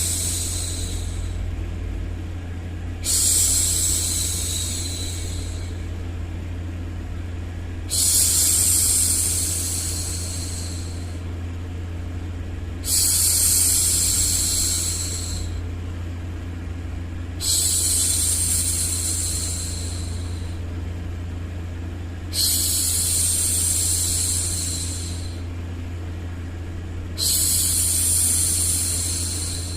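A woman's voice making long, repeated 'shhh' hushing sounds to soothe a baby, about one every five seconds. Each starts sharply and trails off over a steady low hum of background noise.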